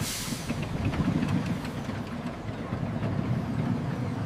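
Steam train sound effect: a low, steady rumble with faint ticks, opened by a short hiss of steam that fades within about half a second.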